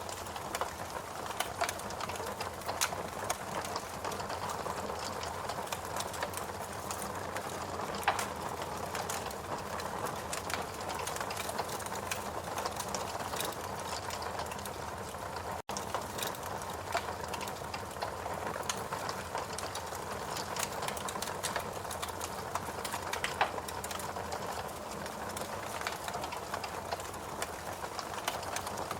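Fireplace crackling: irregular small pops and snaps over a steady soft rushing background, broken by a split-second gap a little past halfway.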